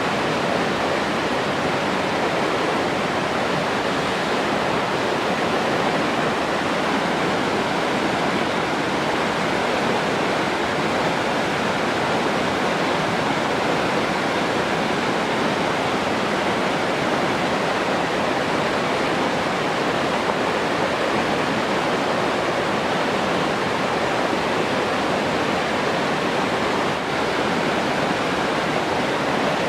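Rushing water, a steady, even, unbroken rush.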